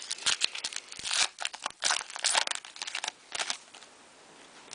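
Foil wrapper of a trading-card pack crinkling and tearing as it is pulled open: a quick run of sharp crackles and rustles that stops about three and a half seconds in.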